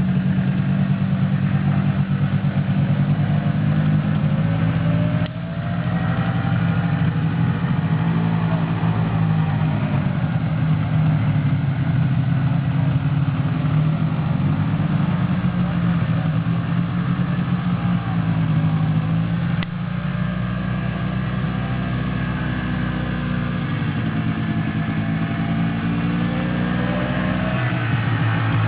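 Quad bike engines running and revving up and down, with a pulsing low engine note. The sound changes abruptly about five seconds in and again about twenty seconds in.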